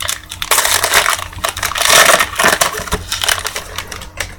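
Plastic wrapper of a trading-card pack crinkling and crackling as it is torn open and handled, with many sharp crackles.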